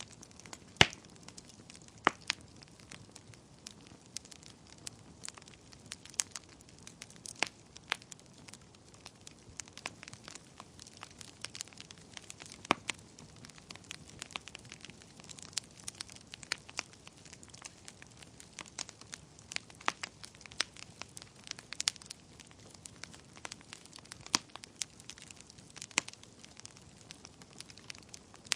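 Wood fire burning in a fireplace: irregular crackles and sharp pops from the burning logs over a soft steady hiss, the loudest pop about a second in.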